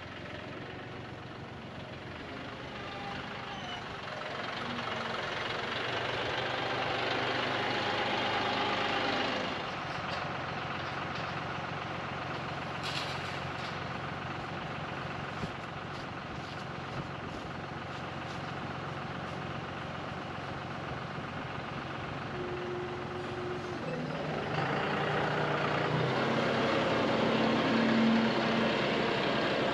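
John Deere 5055E tractor's three-cylinder diesel engine running under work. It eases back about a third of the way in, then builds up louder again near the end.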